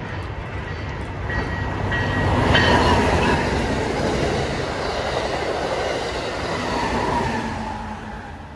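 A train passing close by, its wheels rumbling and rattling over the rails. The sound swells to a peak about two and a half seconds in, holds, then fades near the end.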